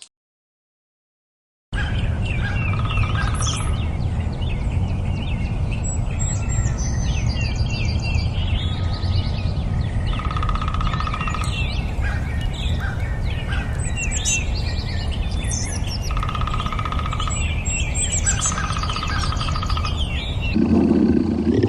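A chorus of several songbirds chirping and whistling, with repeated buzzy one-second trills, over a steady low rumble. It starts after about two seconds of silence.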